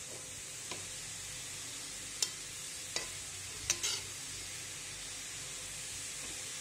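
Grated carrots frying in hot ghee in a metal kadhai, a steady sizzle, while a steel spoon stirs them, scraping and clinking against the pan about five times.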